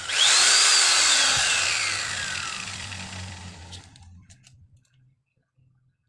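Angle grinder switched on for a moment, its motor whine rising then falling steadily in pitch as it coasts to a stop, with a few rattling clicks as it stops. It is a test run after its bearing was replaced with a new 6001 RS.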